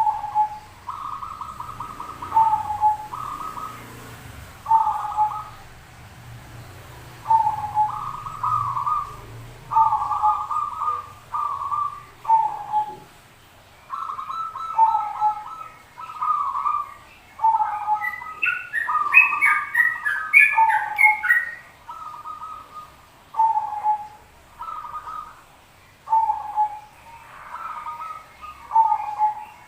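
Zebra doves (perkutut) cooing: short trilled coo phrases repeated every second or two, with a cluster of higher chirping notes about two-thirds of the way through.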